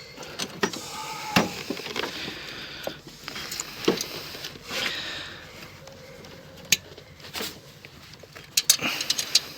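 Scattered clicks and knocks of hand tools and metal parts being handled while a car's engine bay is dismantled, the sharpest a few seconds apart.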